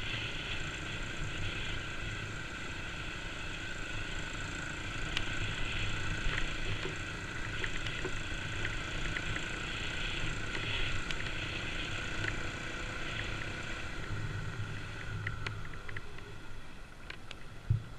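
Kawasaki KLX250's single-cylinder four-stroke engine running at low, steady trail speed, with small clicks scattered throughout and one short thump near the end.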